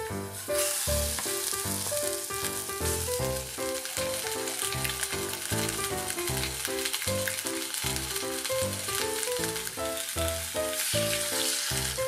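Chicken drumsticks sizzling as they sear in hot sesame oil in a stainless steel saucepan. The sizzle starts about half a second in and falls away near the end, under background music.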